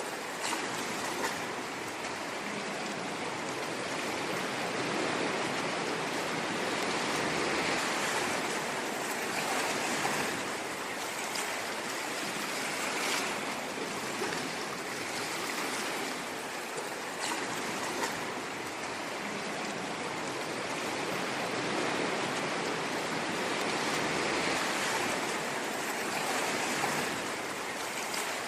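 Ocean waves washing in a continuous rushing wash that swells and eases slowly, with small splashes here and there.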